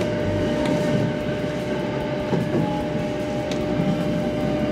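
Electric local train running along the track, heard from inside at the front of the car. The running noise is steady, with a constant hum and a few sharp clicks.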